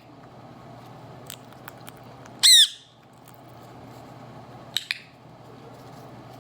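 A pet parrot gives one loud, harsh squawk about two and a half seconds in, followed near the five-second mark by two short, sharp calls close together, over a steady low hum.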